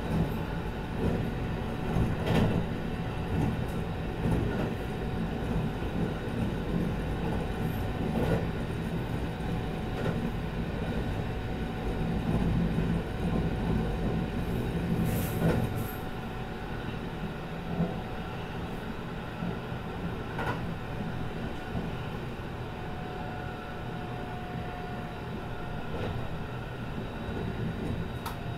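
Steady running noise of a Kintetsu 22000 series ACE limited express at speed, heard from inside the car, with a dense low rumble and a few faint steady tones. Sharp knocks come every several seconds, as wheels pass over rail joints, and the noise eases a little past the middle.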